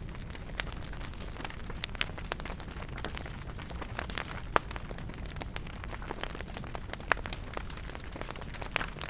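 Campfire wood burning, crackling with frequent irregular sharp pops over a steady low rumble. A louder pop comes about halfway through.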